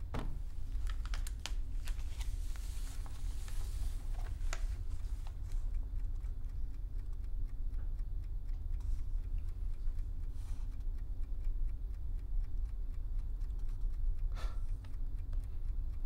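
Pen scratching on paper and papers rustling, with scattered soft clicks, heaviest in the first few seconds and again twice near the end, over a low steady hum.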